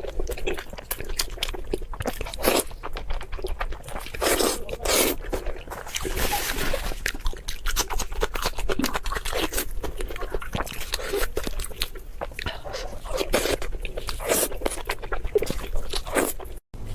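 Close-miked eating: crunchy bites and chewing, dense irregular crackles and crunches with several louder bites.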